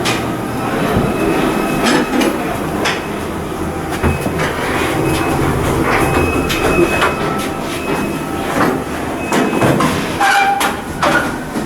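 Shipyard outfitting work noise: a steady mechanical rumble with frequent metallic clanks and knocks and brief high squeals.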